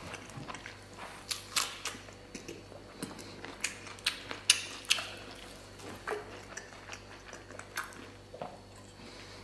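Close-up wet chewing of tender stewed beef: irregular mouth smacks and sharp clicks, the loudest about four and a half seconds in.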